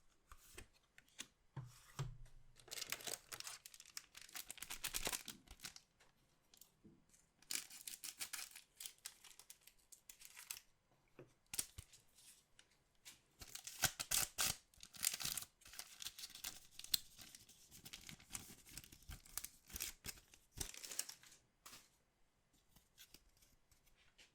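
Packaging of a trading card box being torn open and crinkled by hand: four stretches of tearing and rustling separated by short pauses.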